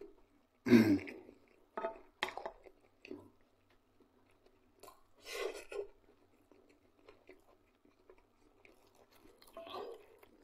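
A man chewing a mouthful of fried potatoes and black bread, eaten with a spoon, with mouth sounds in scattered short bursts.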